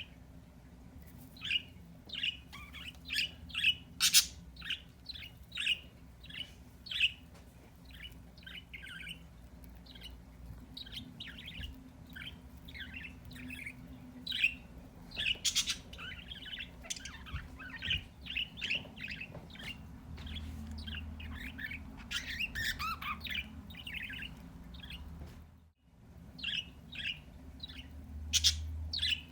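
Pet birds chirping and calling: many short, high chirps in quick irregular runs, over a steady low hum.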